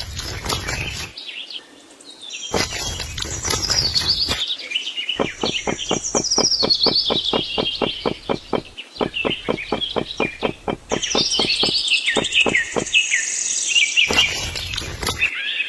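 Birds chirping and calling, with a rapid run of sharp clicks at about five a second through the middle. Bursts of noise cut in and out abruptly near the start, around three seconds in, and near the end.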